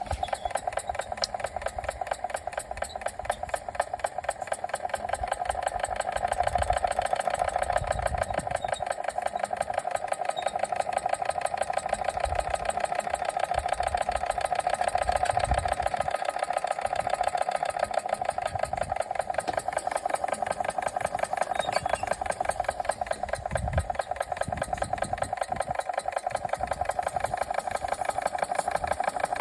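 Small live-steam model engine, a Machinator Steamfire, running fast: a steady, very rapid, even beat with a strong mid-pitched ring. It grows a little louder about six seconds in.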